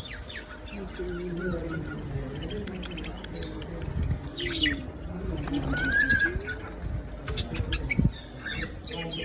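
Pet lovebirds chirping, with many short, high calls scattered throughout.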